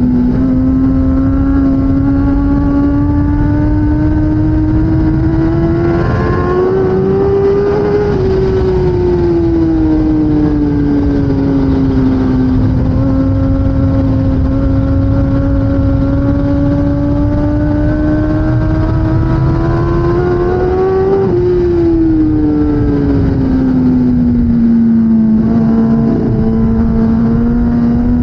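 A 2016 Kawasaki ZX-10R's inline-four engine running at high revs under racing load. Its pitch climbs slowly and smoothly, drops away about 8 seconds in, climbs again, then falls steeply about 21 seconds in before rising once more near the end.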